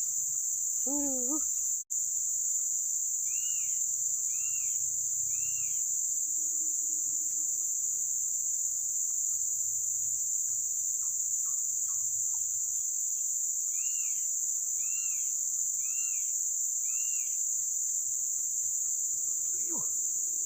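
A steady, high-pitched chorus of insects, crickets or cicadas, shrilling without a break. Over it a bird gives short chirping calls, three about a second apart a few seconds in, then four more later.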